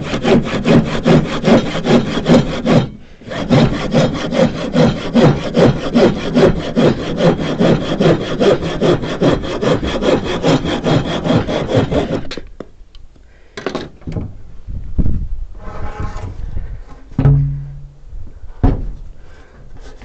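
Handsaw cutting through a wooden piece with steady back-and-forth strokes, about two and a half a second, with a short pause about three seconds in. The sawing stops about twelve seconds in, followed by a few scattered knocks.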